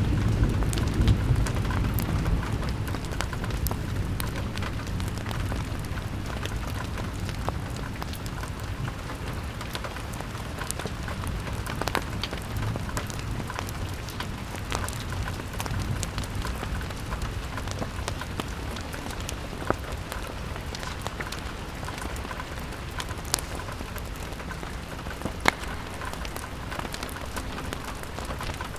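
Steady rain falling on a window, with a low rumble dying away in the first few seconds and occasional sharp pops and clicks scattered through.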